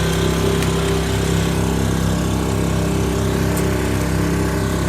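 An engine running steadily at an even speed: a continuous drone that does not rise or fall.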